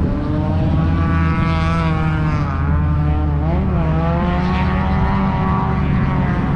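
Drift car's engine running at high revs, its pitch dipping and climbing again a few times as the throttle is lifted and reapplied.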